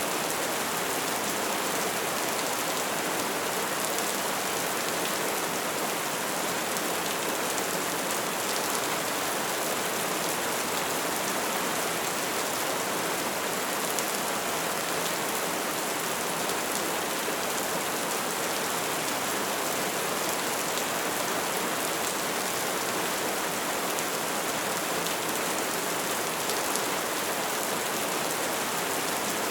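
Wood fire burning steadily, a dense, even crackle and hiss with scattered sharper pops.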